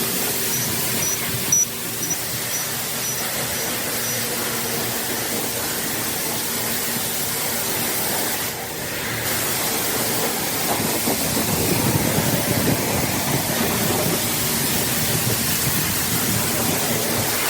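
High-pressure car-wash wand spraying onto a car, a steady loud hiss that breaks off briefly about halfway through and then carries on with a heavier splashing for a few seconds.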